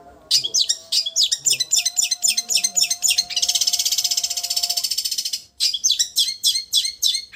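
Long-tailed shrike (cendet) singing high, sharp chirps that run into a fast, even trilling vibrato (the 'getar' of the masteran), then break off briefly into separate chirps again.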